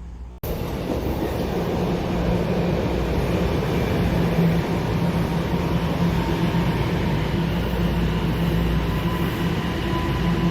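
Toronto subway train running through a station: a steady, loud rail rumble with a constant low motor hum, starting abruptly about half a second in.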